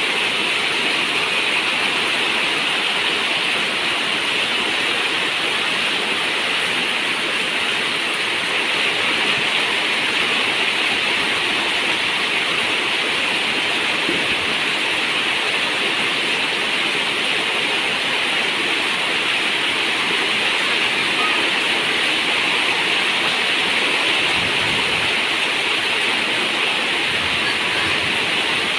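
Steady rain falling on a zinc roof: a constant, even hiss with no single drops standing out.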